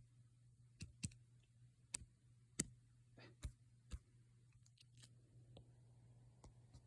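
Faint, sharp clicks and knocks, about eight of them at irregular intervals over a few seconds, over a low steady hum.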